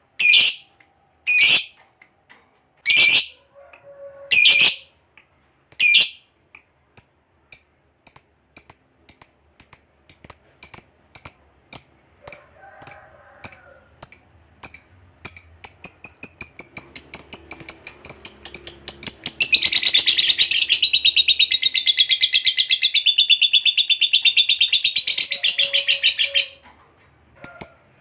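Lovebird calling: a few loud, separate shrill chirps, then shorter chirps coming faster and faster, breaking into a long, fast unbroken chatter (the 'ngekek') of about seven seconds near the end.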